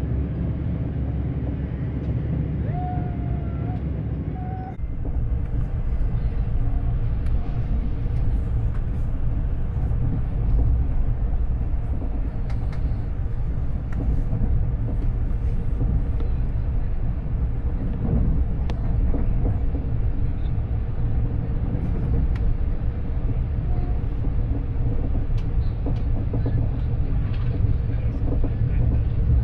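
A passenger train running at speed, with a steady low rumble of the wheels on the rails. About five seconds in, the rumble steps up a little louder and deeper.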